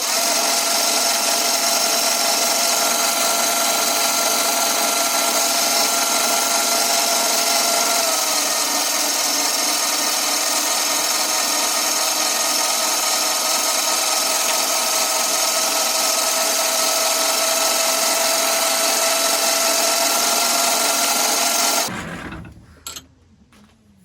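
1944 Logan 210 lathe, driven by a three-phase motor on a variable frequency drive, running a facing cut across a chuck backing plate. It is a steady machine and cutting noise with a whine that drops slightly in pitch about a third of the way through, and it stops suddenly near the end.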